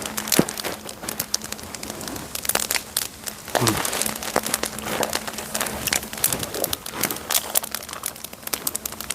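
Campfire crackling, with many sharp, irregular pops and snaps.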